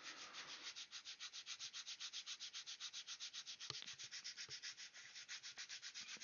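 Dry sanding of a plastic scale-model kit by hand: quick, even back-and-forth strokes of abrasive on plastic, about eight or nine a second, faint.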